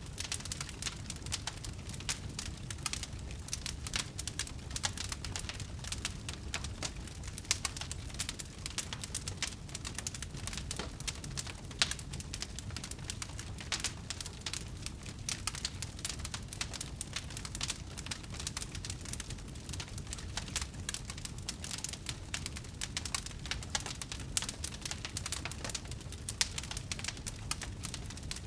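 Wood fire in a fireplace crackling, with many small irregular pops over a low steady rumble of the flames.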